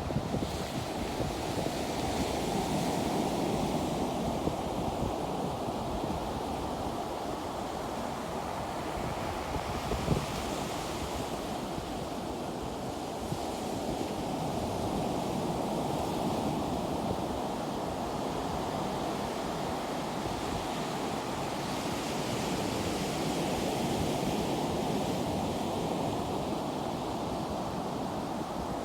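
Ocean surf washing onto the beach in slow swells, with wind buffeting the microphone; a short sharp knock about ten seconds in.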